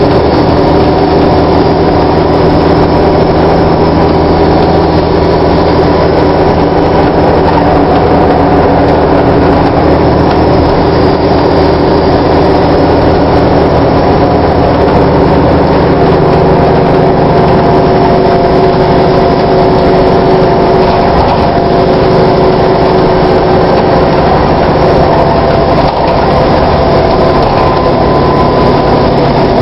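VDL DB250 double-decker bus's diesel engine running steadily, with a faint high whine above it; the engine note shifts a little about halfway through. Its sound is a little stranger than usual for this type of bus.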